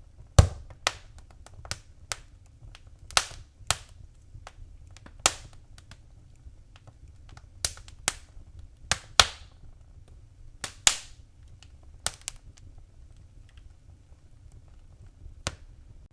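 Wood fire crackling in a fireplace: irregular sharp pops and snaps, roughly one a second, over a low steady rumble of the burning fire. The loudest pop comes about half a second in, with another cluster of strong pops around nine to eleven seconds in.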